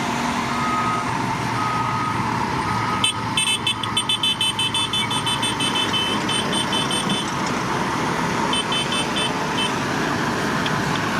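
Heavy construction machine engine running with a reversing alarm beeping about once a second; about three seconds in it stops and a higher-pitched alarm begins, beeping rapidly, about six times a second, for around four seconds. It returns briefly near nine seconds.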